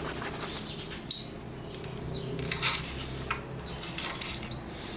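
Light metallic clinks and rattles of small metal parts being handled, with a few sharp clicks about a second in and a cluster of them in the second half.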